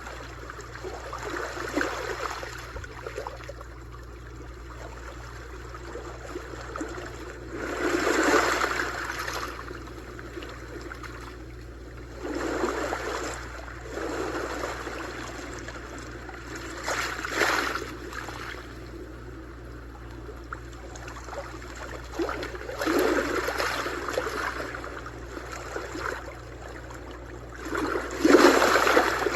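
Small sea waves breaking and washing up a shore. A rush of surf comes every four to six seconds, six in all, with the loudest near the end.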